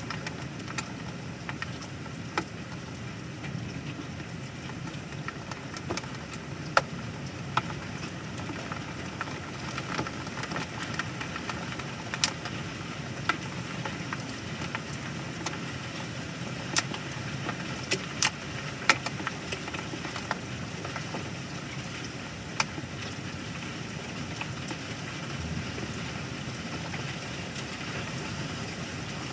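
Steady rain from a thunderstorm, with scattered sharp taps, about one every second or two, of drops or hail hitting a hard surface close by.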